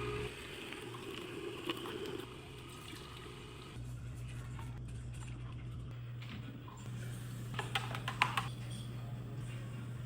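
Canoly C16 juicer running with a steady low motor hum while liquid trickles, with a few short knocks about eight seconds in.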